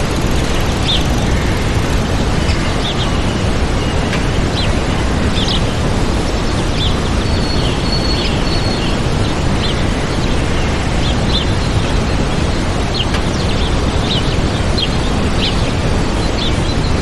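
Waterfall rushing steadily, with small birds chirping in short, scattered calls over the roar of the water.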